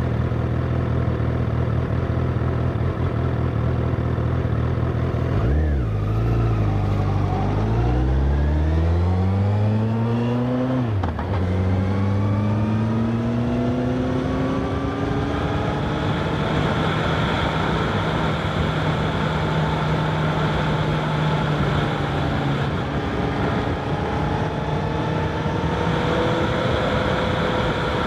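Honda CBR1000RR SP's inline-four engine heard from a recorder on the bike: steady revs at first, a quick rev spike about five seconds in, then a rising pull through one gear, an upshift about eleven seconds in, and a gentler climb to a steady cruise. Wind rush on the microphone underneath.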